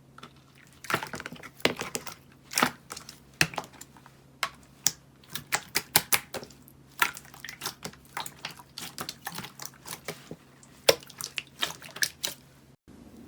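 Slime being worked by hand, giving an irregular run of sharp crackling pops and clicks, several a second, that cuts off near the end.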